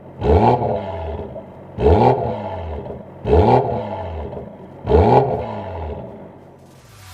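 BMW B48 2.0-litre turbo four-cylinder revved through a Stone Exhaust valved cat-back and catalytic downpipe: four quick throttle blips about a second and a half apart, each rising sharply and falling back. It drops back toward idle near the end.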